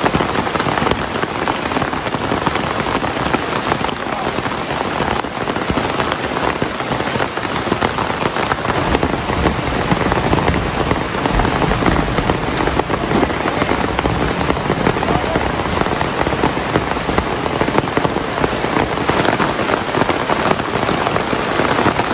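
Heavy rain falling steadily, a dense, even hiss and patter of drops.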